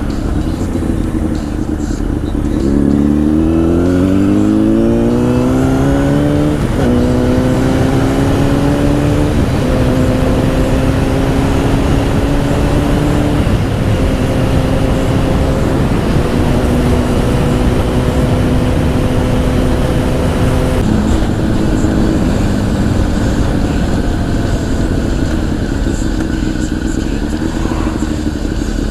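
Honda CBR1000 inline-four with a Two Brothers aftermarket exhaust pulling through the gears. The engine note climbs for about four seconds, drops at an upshift about seven seconds in, then holds fairly steady with a few more gear changes, under constant wind rush.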